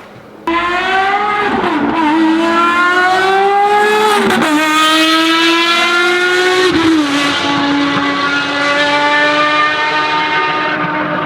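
Ferrari FXX Evoluzione's V12 engine accelerating hard, cutting in suddenly. Its pitch climbs and drops back sharply at each of three upshifts, then holds a steadier, slowly falling note.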